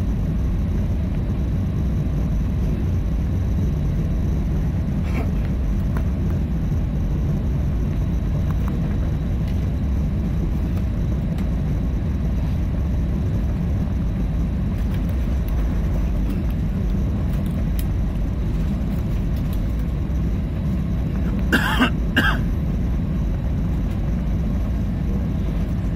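Steady low drone inside an airliner's cabin before takeoff, from the engines and air conditioning. A person coughs twice, briefly, about 21 seconds in.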